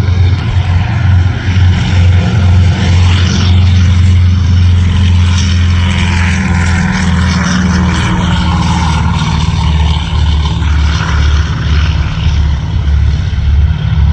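Douglas DC-3's twin radial piston engines at takeoff power: a loud, steady propeller drone whose tone sweeps through the middle as the aircraft passes.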